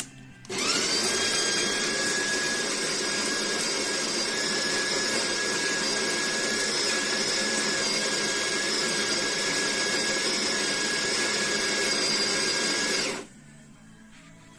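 The built-in burr grinder motor of a De'Longhi Specialista Prestigio espresso machine grinding beans. It spins up with a quick rising whine, runs steadily for about twelve seconds, then stops abruptly.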